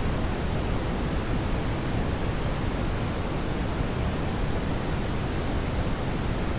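Steady brown noise: an even, deep hiss, heaviest in the low end, with no change.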